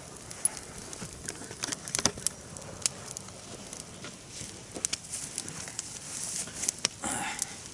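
Campfire of damp branches and pine boughs crackling, with irregular sharp pops and snaps. The wood is wet from long rain, so the fire is slow to catch.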